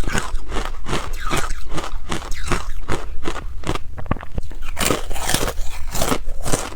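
Frozen ice being bitten and chewed, a rapid run of loud, sharp crunches several times a second.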